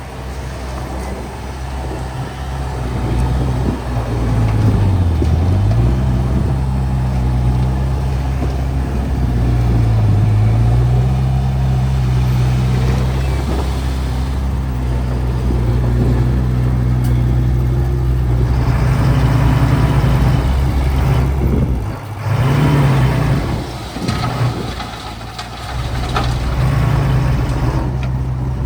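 Heavy earthmoving machine's diesel engine working under load. Its note sags twice, a few seconds apart, and comes back up, then rises and falls several times toward the end.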